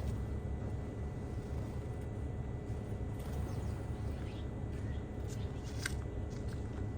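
A few short, high bird chirps in the second half, the sharpest about six seconds in, over a steady low rumble.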